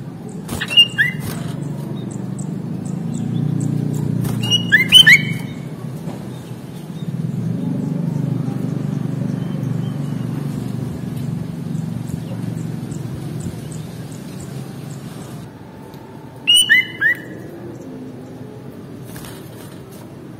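Sooty-headed bulbul giving short phrases of a few clear whistled notes, three times: near the start, about five seconds in, and about seventeen seconds in. A low rumble swells and fades underneath.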